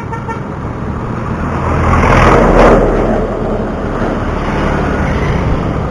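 A motor vehicle passes close by, swelling to its loudest about two and a half seconds in and then fading, over a steady rush of road traffic and wind noise.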